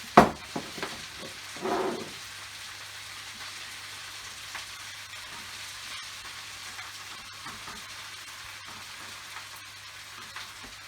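Food frying in a hot pan, a steady sizzle. Just after the start a sharp utensil knock on the pan is the loudest sound, and a short scrape or stir follows a little before two seconds in.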